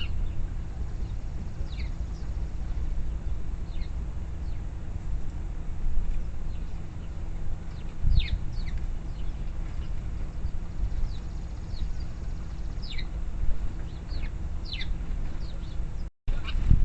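Small birds chirping: short, high, downward-sliding chirps scattered throughout, over a steady low rumble. The sound cuts out briefly near the end.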